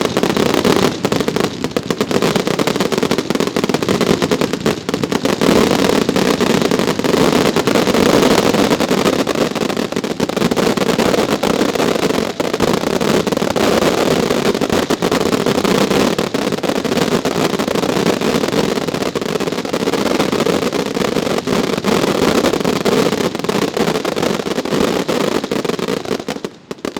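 Fireworks display in a dense, continuous barrage of rapid bangs and crackling that cuts off abruptly near the end.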